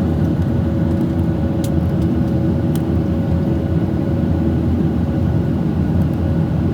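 Steady engine and airflow noise inside the cabin of a Boeing 737-800 airliner, a constant low rumble with a steady hum over it.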